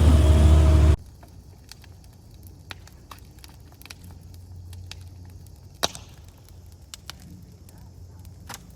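A motor vehicle's engine running loudly, cut off abruptly about a second in; after that, quiet outdoor background with scattered small crackles and snaps, one sharper snap near the middle.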